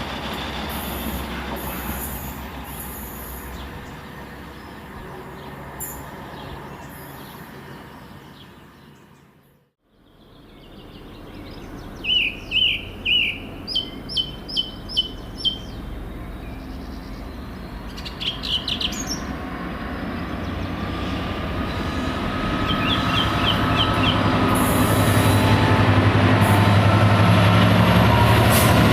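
A diesel freight train's rumble fades away, then after a cut songbirds chirp loudly in short bursts while another diesel freight train approaches, its engine hum and rumble growing steadily louder toward the end.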